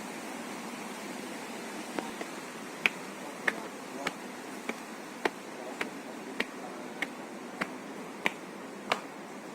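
Footsteps on a hard path, about one and a half steps a second, starting about two seconds in, over the steady rush of a river.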